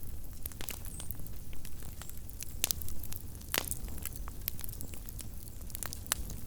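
Small wood campfire burning, crackling with irregular snaps and a few louder pops near the middle, over a low rumble.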